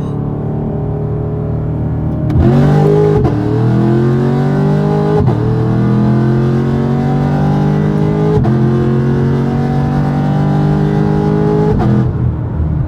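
Car engine heard from inside the cabin, running steadily and then accelerating hard through the gears of a manual transmission: the pitch climbs in each gear and drops at each upshift, four shifts in all.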